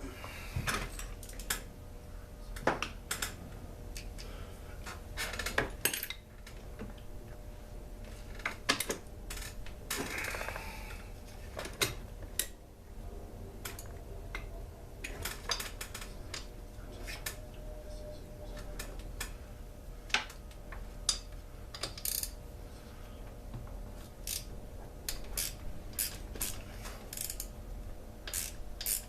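Metal chainsaw parts and hand tools clinking and tapping irregularly as the saw is taken apart, with a brief scrape about ten seconds in, over a faint steady hum.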